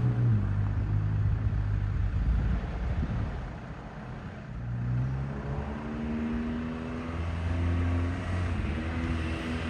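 Ford Capri 1600 four-cylinder engine running, the note changing with the revs: low at first, rising about five seconds in, holding, then easing off near the end.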